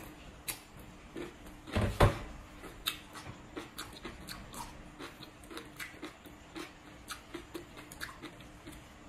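Close-up chewing of crunchy green papaya salad, with small wet crunches and clicks a few times a second, and one louder burst of sound about two seconds in.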